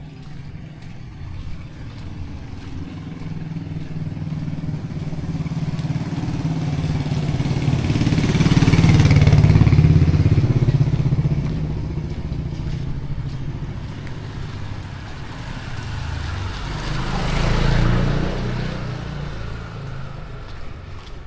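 Two motor vehicles pass close by one after the other, their engines humming low. The first builds over several seconds to its loudest about nine seconds in, then fades. The second peaks about eighteen seconds in.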